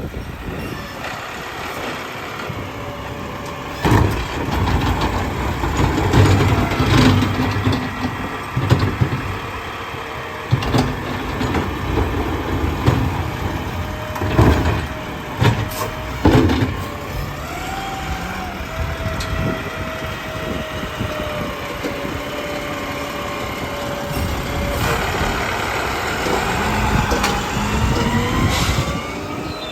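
Garbage truck packing trash: the engine runs under a steady hydraulic whine while the load clanks and bangs several times, then a whine rises in pitch near the end as the engine revs up.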